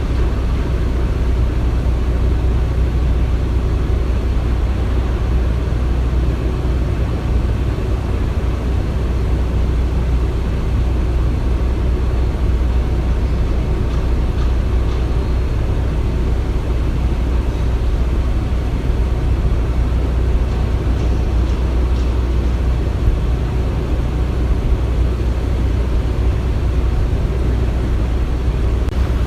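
Construction-site ambience: a steady, deep machinery rumble with an even noisy haze over it and no distinct knocks or bangs.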